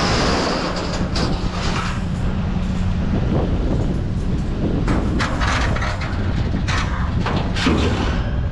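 Metal wire cage rattling and clanking as it is handled and moved. The strikes come irregularly over a steady low rumble.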